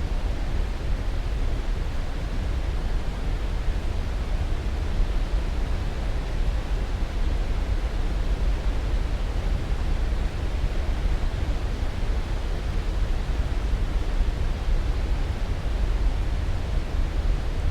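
Steady, unchanging sleep-aid noise, deepest in the bass and thinning toward the top, with no separate events.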